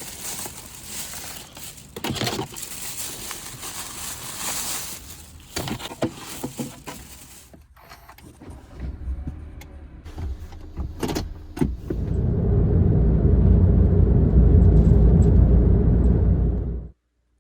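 Rustling and sharp clicks of handling, then a Honda N-Van's engine running with a low, steady rumble for about five seconds, cut off suddenly.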